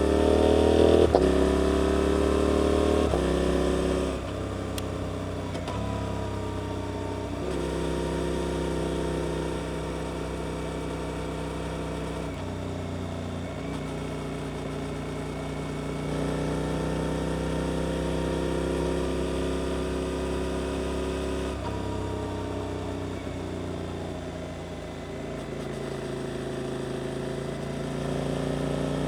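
Suzuki GSX-8S 776 cc parallel-twin engine through an aftermarket Arrow exhaust, revving up hard in the first seconds with a climbing pitch, then shifting gears several times and settling into steadier riding, with a few more gear changes later.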